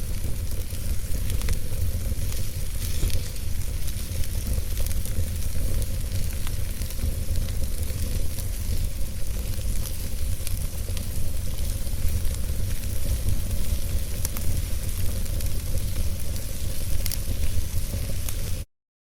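Wood fire in a fireplace burning steadily: an even crackle of small scattered pops over a low rumble. It cuts out completely for a moment near the end.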